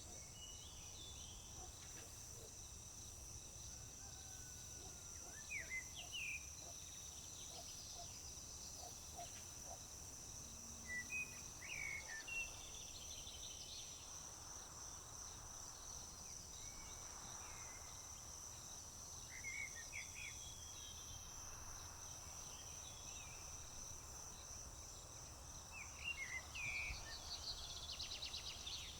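A steady, high-pitched chorus of crickets chirping, with short bird calls breaking in every few seconds and a faint low rumble underneath.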